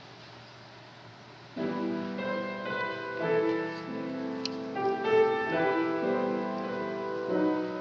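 Low hiss, then piano music starting about one and a half seconds in, a melody of held notes over chords.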